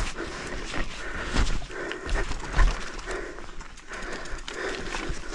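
Mountain bike rattling and thumping down a rough, technical trail, with heavy panting close to the microphone.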